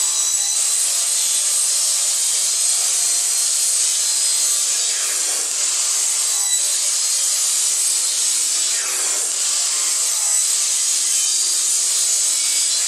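Kobalt sliding compound miter saw running and crosscutting thin (about 3/16 inch) project panel into drawer bottoms, a steady high whine and hiss. Its pitch dips briefly about five and nine seconds in.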